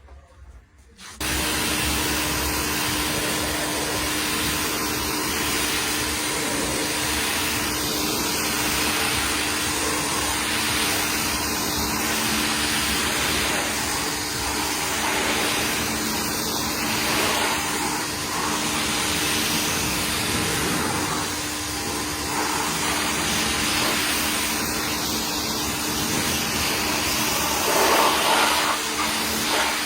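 A motor-driven cleaning machine switches on about a second in and runs steadily, a loud rushing hiss over a constant motor hum.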